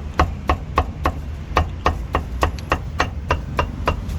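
A cleaver chopping roast meat on a wooden chopping block: quick, even strokes about three a second, each a sharp knock with a short ring, stopping near the end.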